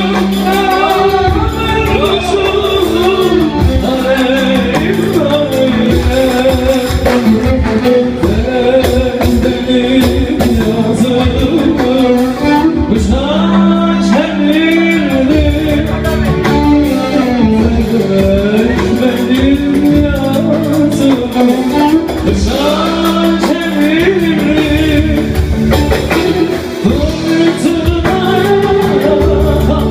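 Live Turkish music: a man sings a winding, ornamented melody over steady instrumental accompaniment.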